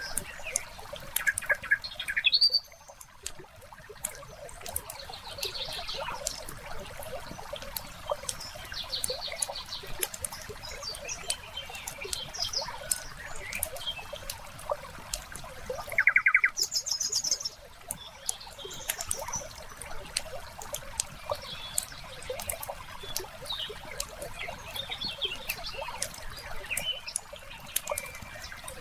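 Wood fire crackling with a steady run of small sharp pops, while birds call now and then with short trilled chirps.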